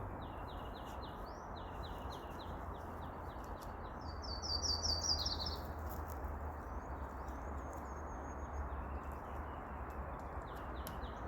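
Songbirds singing: repeated series of short, quick high chirps, with a brief rapid trill about four seconds in, over a steady background hiss.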